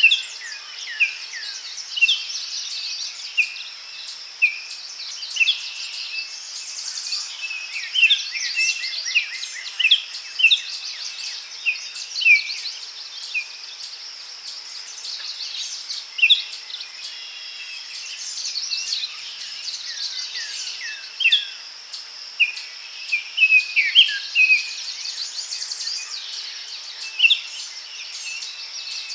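Daytime forest ambience: several songbirds chirping and trilling on and off, over a steady high insect buzz with a regular fast ticking.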